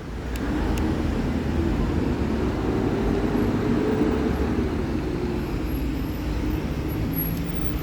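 Diesel engine of a large vehicle running close by, a steady low rumble that rises slightly in pitch and loudness to about four seconds in, then eases off.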